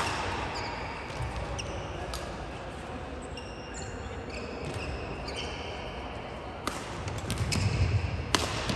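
Badminton rally on an indoor court: sharp racket strikes on the shuttlecock, the first right at the start and two more near the end, with short high squeaks from shoes on the court floor in the middle, over the murmur of the hall.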